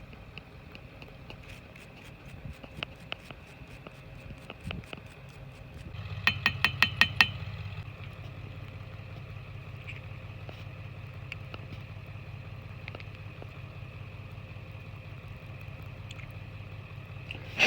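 A machine starts about six seconds in with a rapid run of clicks, then runs with a steady low hum. Before that, faint scattered handling knocks.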